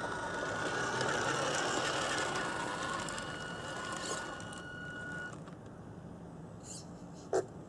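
A small electric motor and gears running with a steady whine, stopping abruptly about five seconds in. A single short squeak follows near the end.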